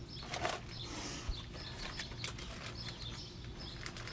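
Small birds chirping, with scattered light clicks and a brief rustle in the first second.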